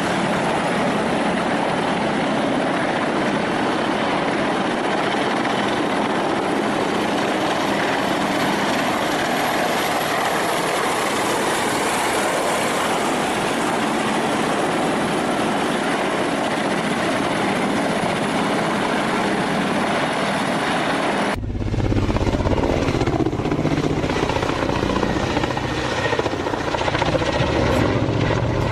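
Attack helicopter running, a steady rushing noise; about 21 seconds in it cuts abruptly to a closer recording with a heavy low rumble.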